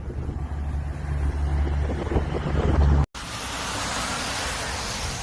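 Storm wind buffeting the microphone with a heavy low rumble, then, after an abrupt cut about three seconds in, a steady hiss of wind-driven snow.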